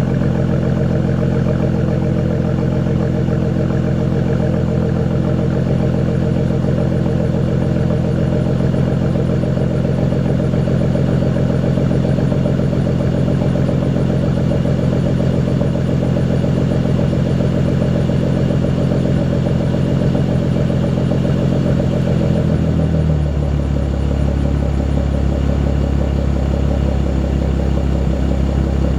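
Ford Mustang V6 engine idling steadily. About 22 seconds in, the idle note drops to a lower pitch and stays there.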